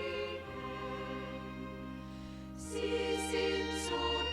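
Music: a choir singing a slow hymn in sustained chords, with instrumental accompaniment; the chord changes a little past halfway.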